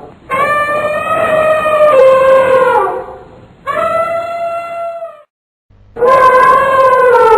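Elephant trumpeting: three long calls in a row. The first lasts about three seconds and dips slightly in pitch at its end; a shorter one follows, then after a brief silence a third begins near the end.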